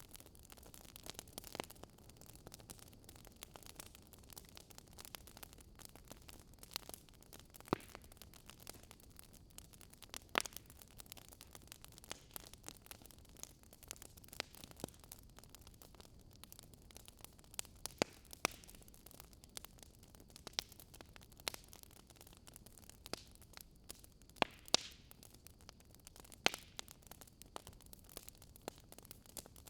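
Fire crackling in a fireplace: irregular sharp pops and snaps, a few of them louder, over a faint steady hiss.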